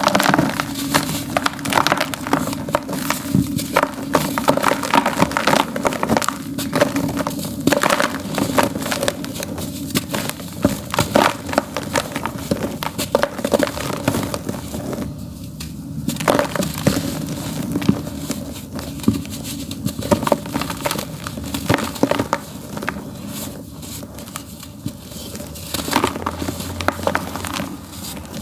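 Dry, earthy dirt being crumbled in a tub: a dense, continuous run of crisp gritty crunches and crackles, over a faint steady low hum.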